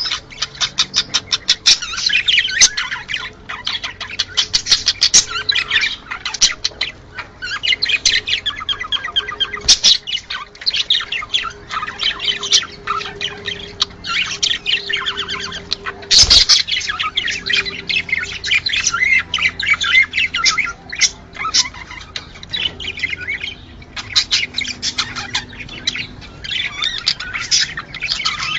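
A flock of budgerigars chattering: rapid, continuous warbling, chirps and squawks, with one sharp click about halfway through.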